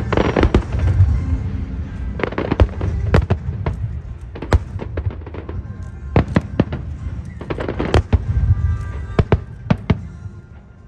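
Aerial fireworks bursting in quick, irregular succession: sharp bangs and crackles over deep rumbling booms, with the show's music playing over loudspeakers.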